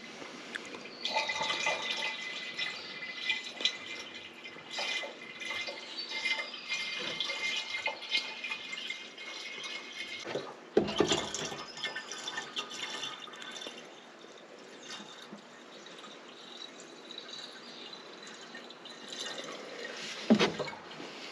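Liquid being poured from a jug into a tractor's filler, a steady pour for the first half, then quieter, with a knock about eleven seconds in and another near the end.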